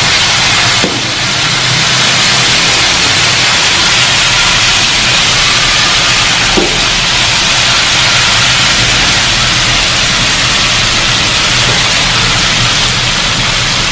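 Spice paste of ground red chilli, garlic and galangal sizzling steadily in hot oil in an aluminium wok, sautéed until it wilts.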